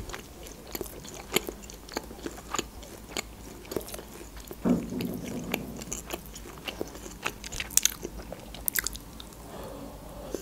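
Close-miked chewing of food with the mouth closed: many small wet mouth clicks and smacks, with a brief lower sound about five seconds in.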